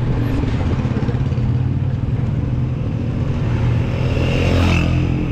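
Motorcycle engine running steadily under way, with road and wind noise, growing louder about four seconds in.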